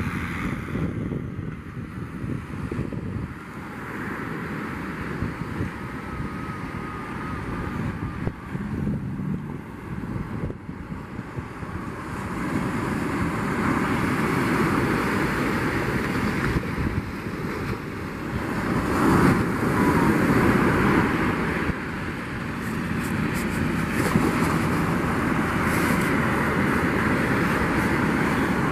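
Surf breaking on the beach with wind buffeting the microphone, swelling louder about halfway through.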